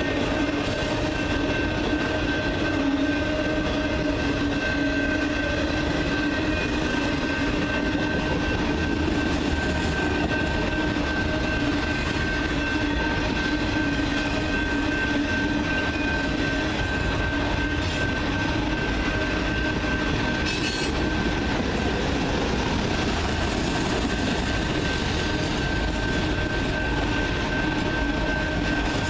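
Freight cars of a long train rolling steadily past, with a continuous high-pitched wheel squeal over the rumble of the wheels.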